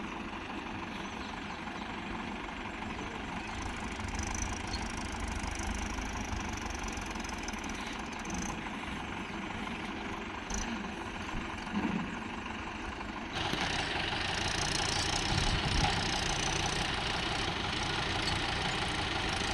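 Tractor engine running steadily, getting louder about thirteen seconds in.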